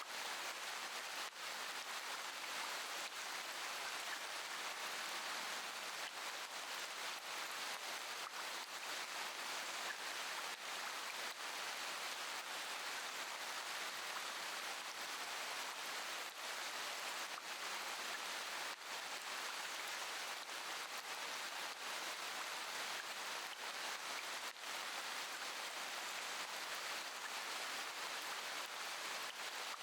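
Steady rain, an even hiss of falling rain with no break.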